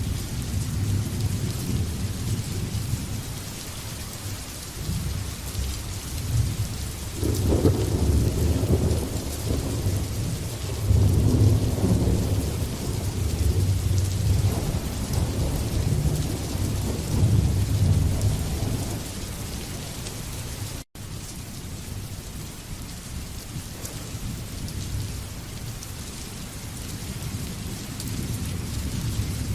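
Steady rain with a long rolling thunder rumble that swells in about a quarter of the way through, peaks a couple of times and fades away over roughly ten seconds. Past the middle the sound cuts out for an instant.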